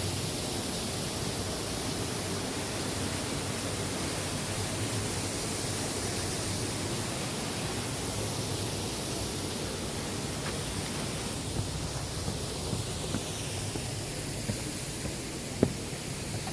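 Steady rushing noise of outdoor ambience, with one sharp click near the end.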